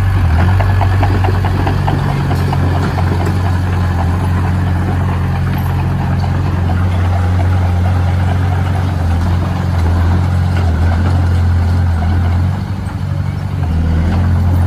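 Engine of a heavy construction machine running steadily at a constant low drone, easing off briefly about twelve seconds in.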